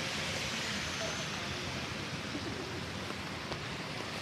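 Steady hiss of rain on a city street, with faint traffic and voices underneath.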